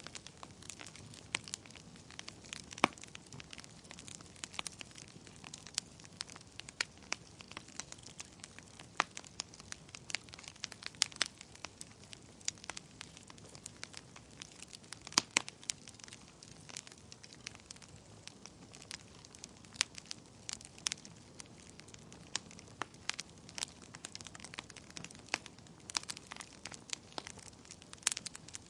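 Wood fire burning in a fireplace: irregular sharp crackles and pops, several a second, over a low steady hiss of flame.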